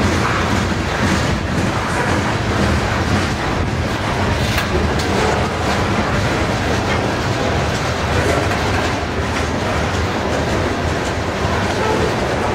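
Loaded covered hopper cars of a freight grain train rolling past at steady speed: a continuous deep rumble of steel wheels on rail with a light clickety-clack of wheels over rail joints.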